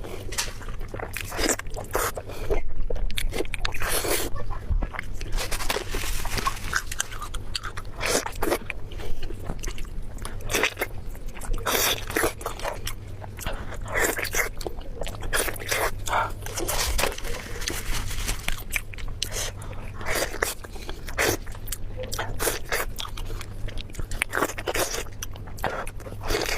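A person biting and chewing food close to the microphone: irregular crunches and mouth clicks, several to the second.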